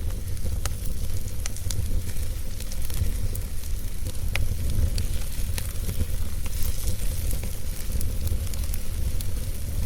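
Wood fire burning, with irregular crackles and pops over a steady hiss and a low rumble.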